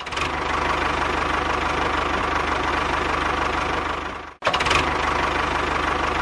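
A small motor whirring steadily with a fast, even ticking. It breaks off abruptly for a moment about four seconds in, then carries on.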